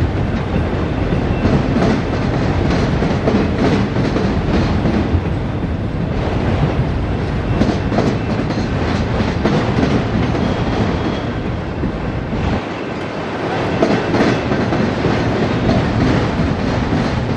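Enclosed autorack freight cars rolling past at close range, a continuous heavy rolling noise with steel wheels clicking over rail joints.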